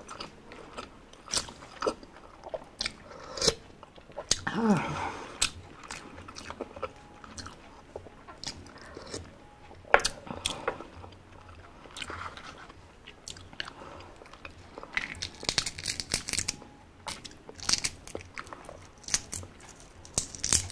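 Close-miked chewing of spicy balut (duck embryo egg topped with chopped chilies), with many sharp clicks and crunches, and a short hummed voice sound about four and a half seconds in.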